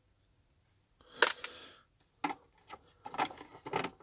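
Plastic parts of a vacuum cleaner's housing being handled during disassembly. A sharp click with a short scraping rustle comes about a second in, then a run of separate clicks and knocks near the end.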